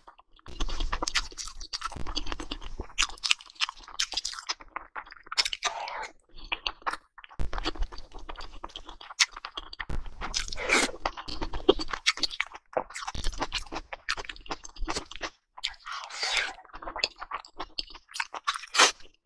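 A person eating raw salmon and kimchi: irregular chewing and crunching bites, broken by a few short pauses.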